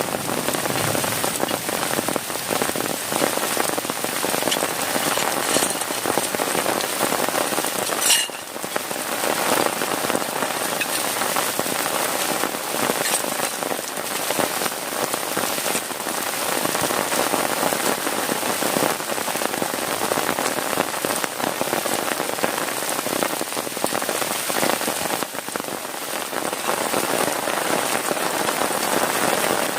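Heavy rain falling steadily on a plastic tarp over a tent, a dense even hiss of drops.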